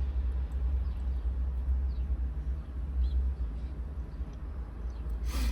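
Outdoor ambience: a steady low rumble with faint bird chirps, and a short sharp rustle or scrape near the end.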